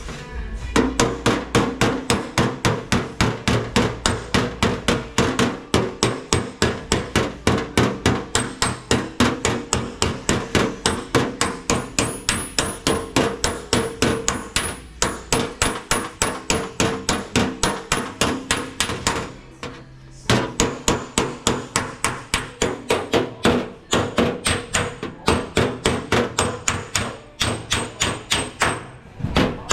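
Body hammer beating sheet-steel car body panel in fast, even blows, about three a second, each with a metallic ring, broken by a few short pauses.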